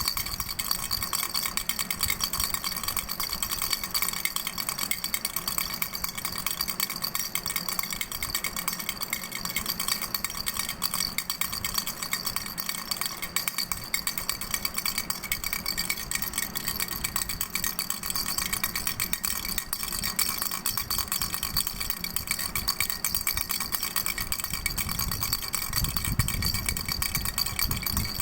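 Doraemon baby rattle shaken without pause: a dense, rapid rattle with a steady ringing tone over it. A low rumble joins in near the end.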